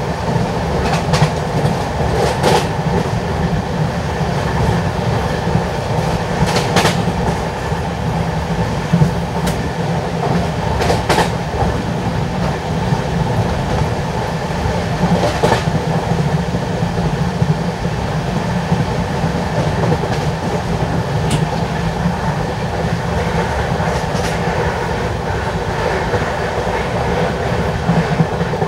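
LHB passenger coaches running along the track: a steady rumble of wheels on rails, with occasional sharp clicks at irregular intervals.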